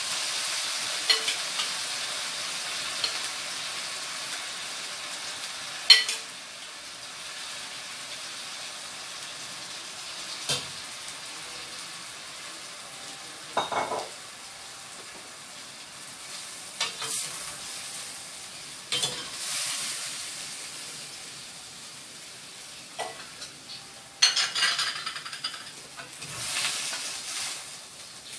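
Shrimp sizzling in a stainless steel frying pan over a gas flame: a steady high hiss that slowly dies down. A stirring spoon and spatula knock and scrape against the pan now and then, loudest about six seconds in, and in a busier run of stirring near the end.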